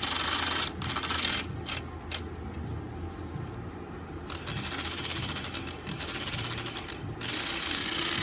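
Ratchet running water-pump bolts in, with stretches of rapid clicking and a quieter pause in the middle. The bolts are only being snugged, not yet torqued.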